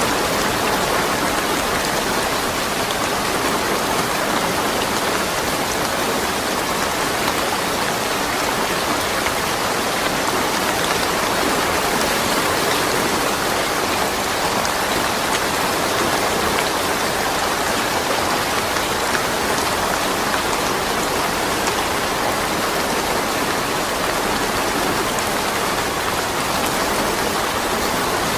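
Steady rain falling, with no thunder: an even hiss of drops on surfaces, with fine individual drop ticks.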